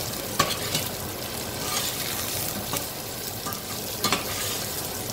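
Okra sizzling in oil in a stainless steel saucepan while a spoon stirs it, with a few sharp knocks and scrapes of the spoon against the pan, the loudest about half a second in and about four seconds in.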